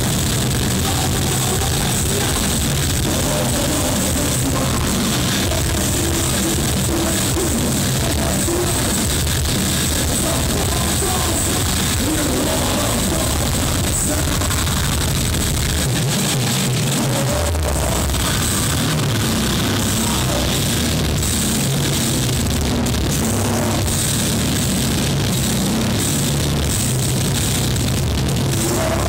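Live heavy metal band playing loud, distorted guitars and drum kit, recorded from the crowd. The bass drops out briefly about halfway through, then the full band comes back in.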